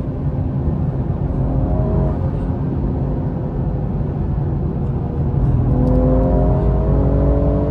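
BMW M340i's turbocharged 3.0-litre straight-six, fitted with a custom intake and exhaust, heard from inside the cabin at highway cruise over a steady road and tyre rumble. About five and a half seconds in, the engine note gets louder and its pitch climbs slowly as the car accelerates.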